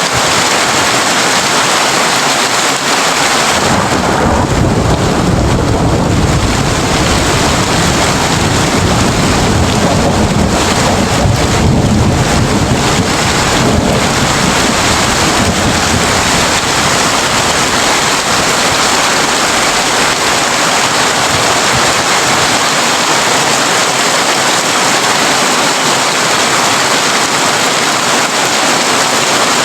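Heavy rain drumming steadily on a tin roof. About four seconds in a long, deep rumble of thunder sets in, lasting around ten seconds before it fades back into the rain.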